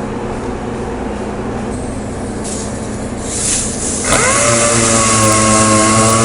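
A steady machine hum, then about four seconds in a dual-action sander starts up and settles into a steady high whine with several tones.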